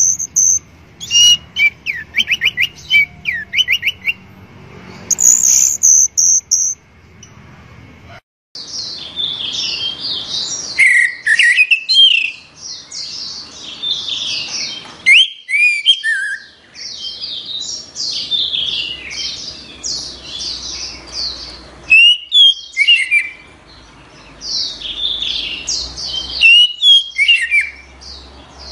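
Orange-headed thrush singing a loud, varied song of rapid whistled phrases and chirps, with runs of quick repeated falling notes in the first few seconds. The song breaks off abruptly a few times and resumes at once.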